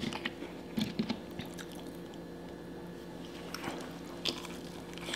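Close-miked eating of french fries: soft chewing with a few small mouth clicks, over a faint steady hum.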